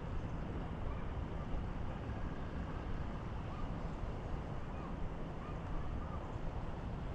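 Steady low rush of high water pouring through a spillway.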